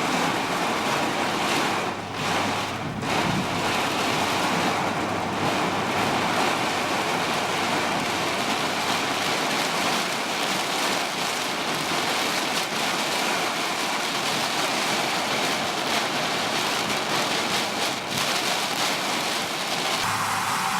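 Heavy rain pouring down, a dense steady hiss, with two brief lulls a couple of seconds in.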